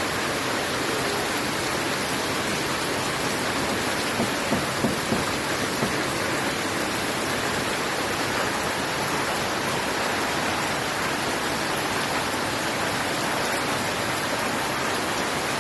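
Steady rain falling, an even hiss without let-up, with a few louder splashes or taps about four to six seconds in.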